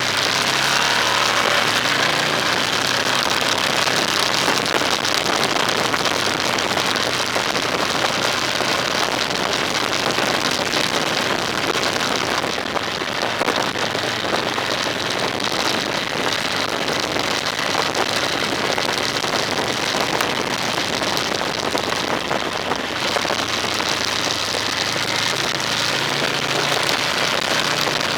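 Car on the move: a steady hiss of tyre and wind noise over a low engine hum, the hum plainer near the start and near the end.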